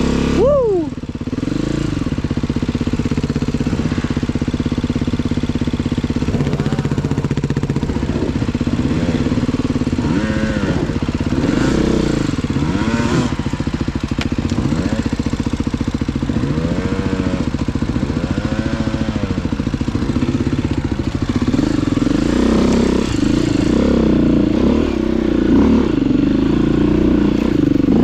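Off-road motorcycle engines running, blipped in repeated short revs that rise and fall in pitch, with a steady engine drone underneath.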